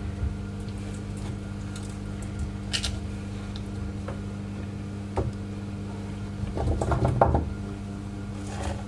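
Raw cut vegetables being placed into a baking tray around a whole chicken: a few light knocks and clicks, with a short run of busier handling noise about seven seconds in, over a steady low hum.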